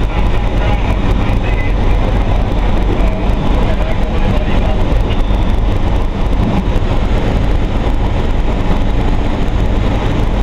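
Diesel railcar running steadily as heard from inside the driver's cab: a continuous low engine drone under an even rumble of the train in motion.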